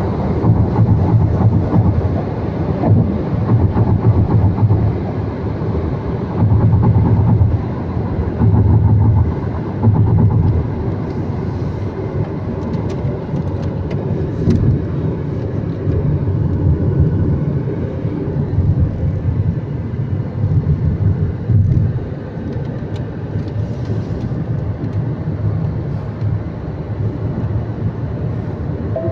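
A car being driven: a steady low rumble of engine and road noise that swells and eases every few seconds.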